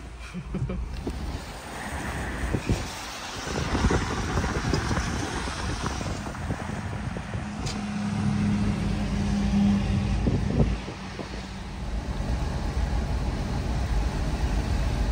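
Car driving on rain-wet roads, heard from inside: steady tyre and road noise over a low engine rumble, with a steadier hum for a couple of seconds past the middle.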